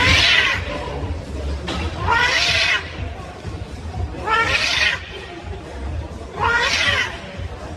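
A cat meowing loudly and repeatedly: four long, drawn-out calls about two seconds apart, over a steady low hum.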